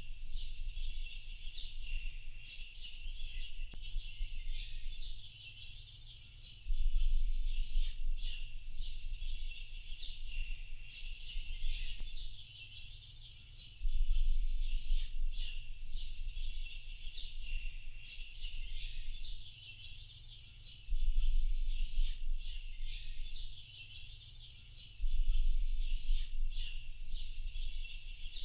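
Dense chorus of many small birds chirping and twittering together without pause. A low rumble swells up every five to seven seconds and fades again.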